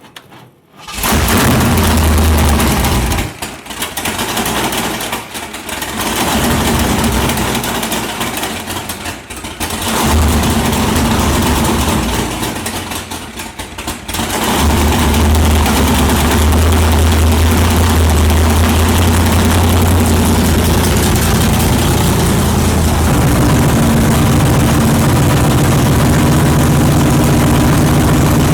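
Big-block Ford 460 V8 firing up, then running rough, stumbling and picking up again several times before settling into a steady, loud idle about halfway through.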